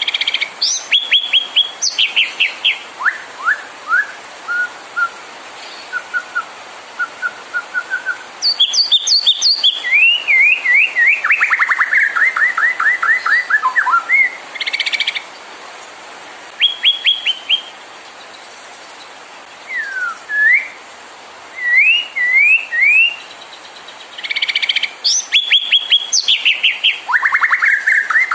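White-rumped shama singing a varied song: fast runs of repeated sharp notes, a short series of level whistled notes, and rising slurred whistles, phrase after phrase with short pauses between.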